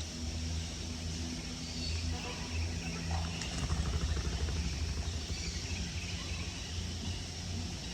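A steady low hum of a motor or machine, with a few faint short bird chirps.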